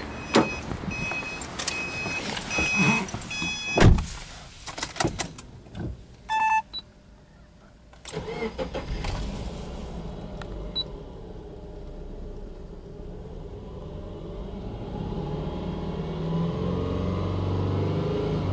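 The car's warning chime beeps repeatedly over the first few seconds, followed by clicks and knocks. About eight seconds in, the Subaru Impreza 20S's flat-four boxer engine starts and runs at a fast idle near 2,000 rpm just after starting, then is revved up to around 3,000 rpm near the end.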